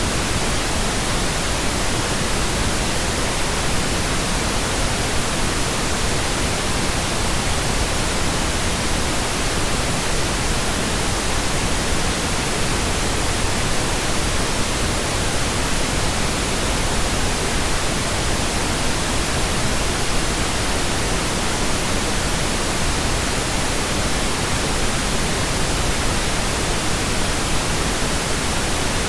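Steady computer-generated pink noise: an even, unchanging hiss across the whole range, with no breaks or events.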